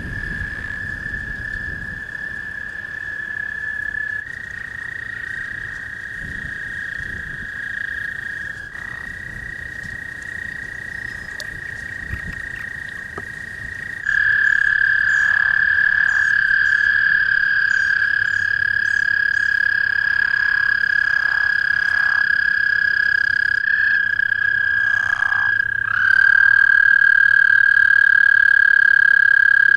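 A chorus of American toads giving long, steady, high trills that overlap one another, with a louder, closer trill taking over about halfway through and again near the end. Leopard frogs add short croaks underneath.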